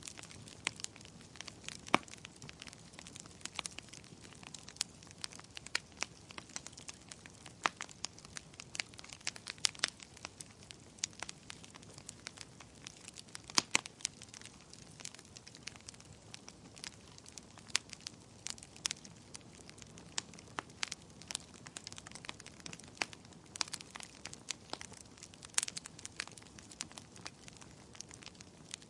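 Wood bonfire crackling: irregular sharp pops and snaps, a few much louder than the rest, over a soft steady hiss of burning.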